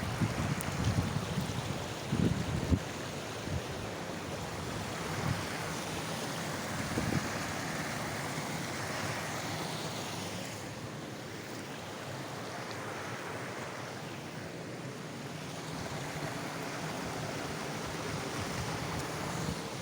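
Steady rush of water, with wind buffeting the microphone in gusts during the first few seconds.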